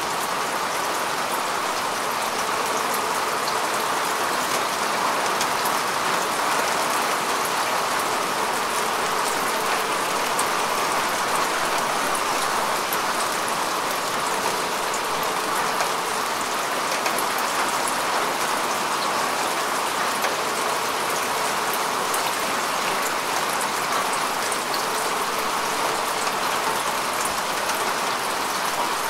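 Steady rain falling on grass and earth: an even hiss of many drops, with fine, crisp drop ticks scattered through it.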